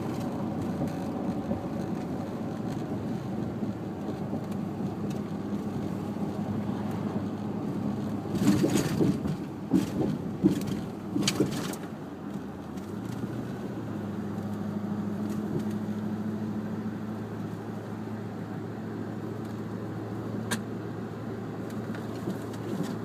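Car driving along, a steady engine and road hum, with a run of loud knocks and rattles about a third of the way in and a single sharp click near the end.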